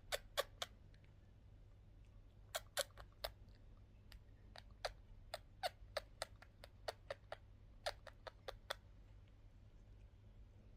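Budgerigars' beaks clicking and tapping: about twenty short, sharp clicks in irregular clusters, then quiet for the last couple of seconds, over a low steady hum.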